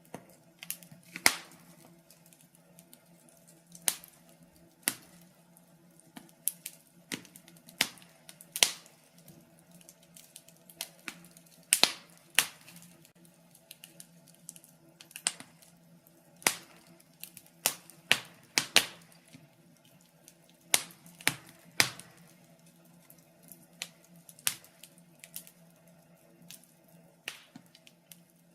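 Wood fire crackling in a fireplace: burning logs giving off irregular sharp pops and snaps, several a second at times, a few much louder than the rest.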